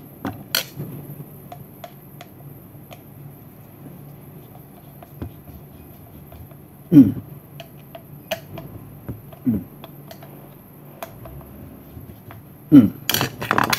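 Scattered light metallic clicks and taps of screws and a screwdriver being handled while a washing machine's drain parts are taken apart, with two short downward squeaks midway.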